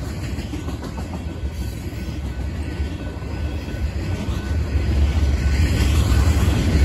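Empty steel hopper cars of a freight train rolling past, a steady rumble of wheels on the rails that grows louder near the end.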